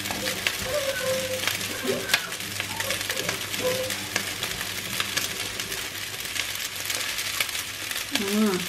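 Nasi goreng (fried rice with scrambled egg) sizzling in a wok on the heat: a steady hiss, with a few light clicks.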